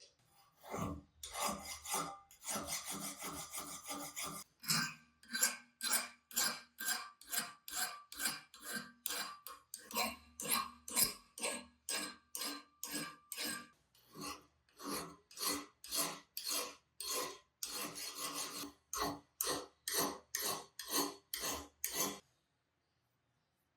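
Rhythmic back-and-forth abrasive strokes by hand, about two a second, with a short pause about ten seconds in; they stop shortly before the end.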